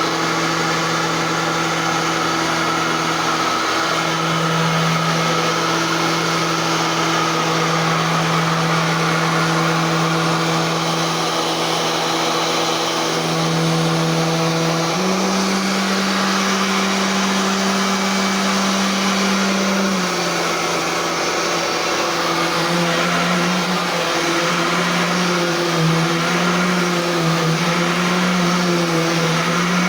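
Royal Classic Edition upright vacuum cleaner running, a steady motor whine with a low hum under it. The hum steps up in pitch about halfway through, then wavers up and down over the last third as the load on the motor changes.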